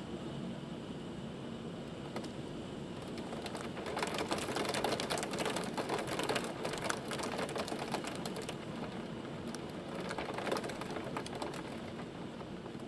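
Hailstones striking a hard surface in a dense, rapid rattle of clicks, building to its heaviest from about four seconds in to about eight seconds, with a second flurry near ten seconds before easing off.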